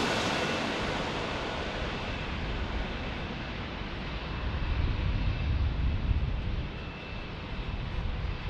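Jet airliner engine noise fading away after it passes, with a faint steady high whine, and a low rumble that swells and drops off again in the middle.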